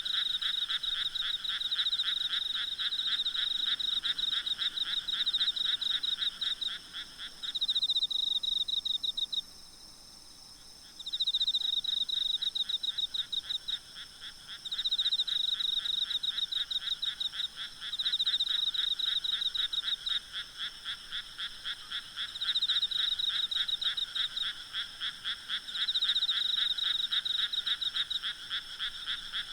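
Night chorus of frogs calling in rapid trains of croaks, bout after bout, briefly falling quiet about ten seconds in before starting again, over a steady high trilling of insects.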